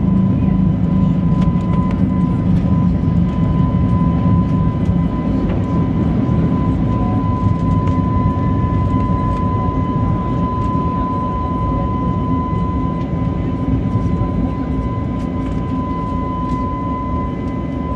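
Airbus A321neo's turbofan engines at high climb thrust, heard from inside the economy cabin. A steady, deep rumble carries a constant thin whine, and the whole sound eases slightly toward the end.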